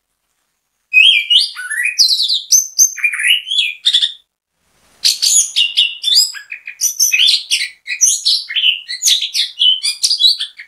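Chestnut-capped thrush (anis kembang) in full song: a fast, unbroken run of varied high phrases with quick rising and falling notes, in two long bursts split by a short pause about four seconds in.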